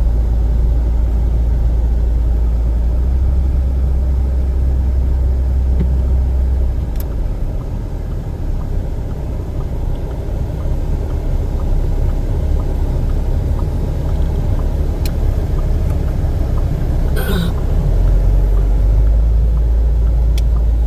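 Car on the move: a steady low rumble that eases off for a few seconds about a third of the way in, with a few sharp clicks and a short crackle near the end.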